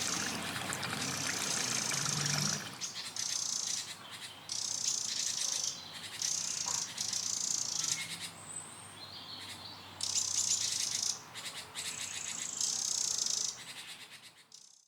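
Field recording of high, buzzy chirping trills, repeated in bursts of about a second with short gaps, and one brief higher whistle midway. The sound fades out at the end.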